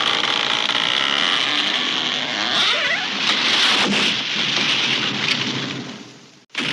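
A tree crashing down: a long, dense crash of breaking wood and branches with scattered cracks and a brief creak near the middle, fading out about six seconds in.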